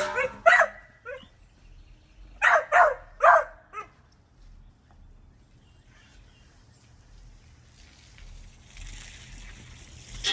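A pit bull yapping: short barks in the first second, then three sharp barks a couple of seconds in. Near the end a steady rushing noise begins.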